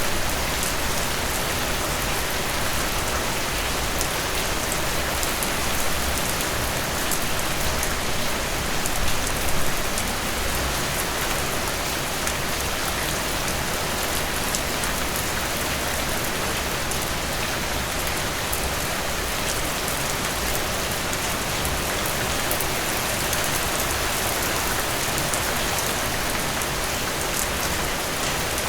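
Steady heavy rain falling on a surface, a dense even hiss with many individual drops ticking, briefly a little louder about nine seconds in.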